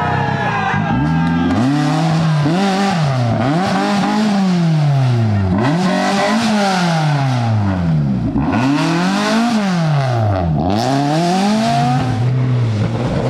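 Rally car engine revving hard and dropping back repeatedly, its pitch climbing and falling about five times as it is driven through the stage.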